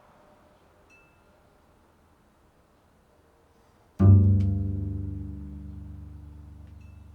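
Very quiet for about four seconds, then a single low musical note is struck or plucked and rings out, slowly fading.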